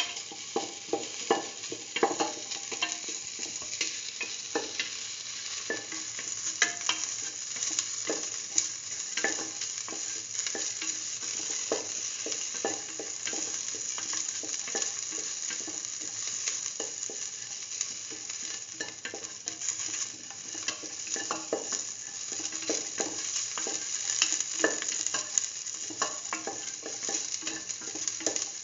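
Sliced shallots sizzling in hot oil in a stainless steel pan while being stirred, with a steady frying hiss and frequent irregular scrapes and taps against the pan.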